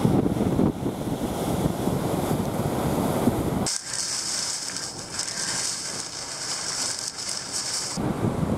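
Typhoon wind buffeting the microphone in loud, gusty rumbles. About four seconds in, it cuts suddenly to a steady high hiss, and the wind rumble comes back near the end.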